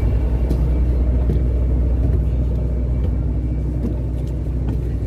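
A boat's engine running, heard on board as a steady low rumble and hum, with a few faint clicks over it.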